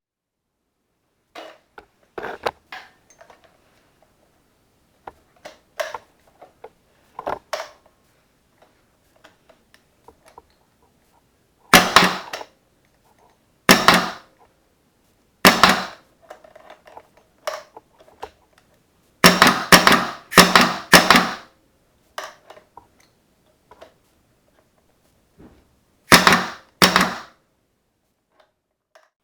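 Hitachi WF4H high-pressure pneumatic screw driver being fired repeatedly, each shot a sharp blast of air. A few faint clicks come first, then louder shots a couple of seconds apart, with a quick run of four about two-thirds of the way through.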